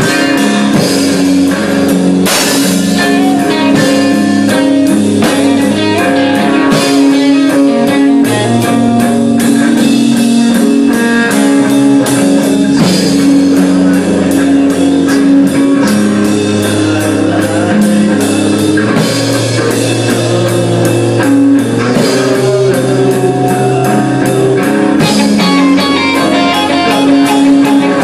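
A rock band playing live: two electric guitars and a drum kit in an instrumental passage, the guitars picking interlocking melodic lines over steady drumming with frequent cymbal hits.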